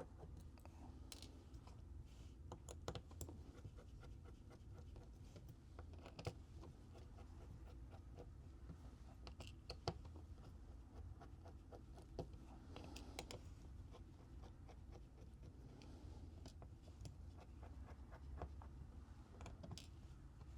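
Faint, scattered small clicks and scrapes of a screwdriver working the tiny screws out of a Samsung Galaxy S22 Ultra's inner frame, over a low steady hum.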